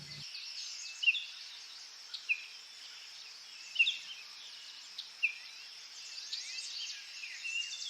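Birds chirping and calling, with short high chirps every second or so over a faint steady hiss of outdoor ambience.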